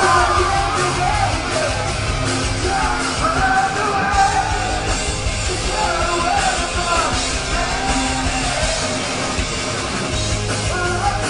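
Live metalcore band playing at full volume, with sung vocals over distorted guitars, bass and drums.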